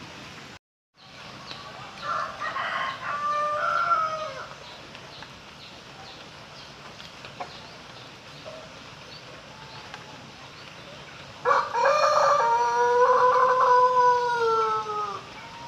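Ayam pelung rooster crowing: a shorter call about two seconds in, then near the end a long, drawn-out, melodious crow of nearly four seconds that sinks slightly in pitch as it fades.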